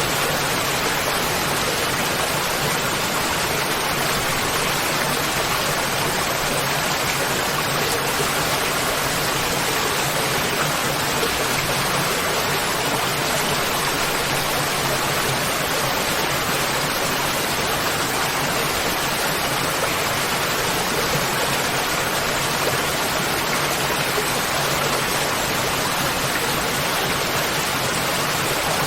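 Waterfall: a steady, even rush of falling water, with no changes in level.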